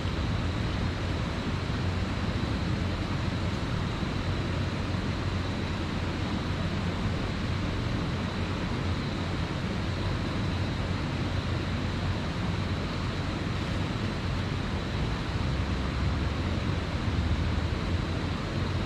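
Steady rushing of creek water, an even, unbroken wash of sound.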